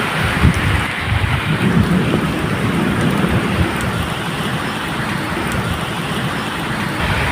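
Steady medium rain falling, with a low rumble of thunder running underneath.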